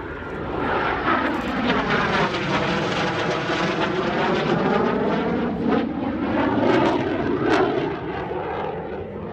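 Fixed-wing aircraft flying past at an air display, its engine noise swelling and shifting in tone as it passes.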